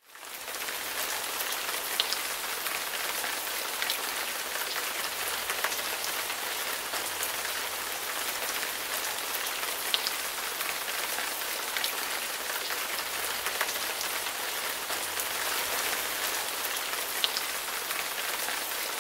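Steady rain, an even hiss with a few sharp drop-like ticks scattered through it, fading in at the start.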